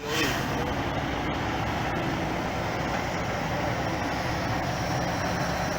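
Off-road trial truck's engine running steadily.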